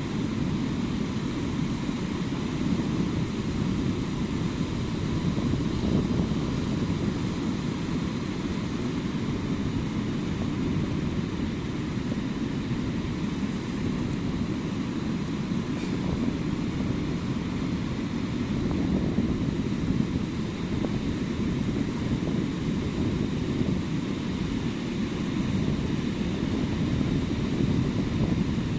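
Sea waves breaking on a beach, a steady low rumble of surf that swells a little every several seconds.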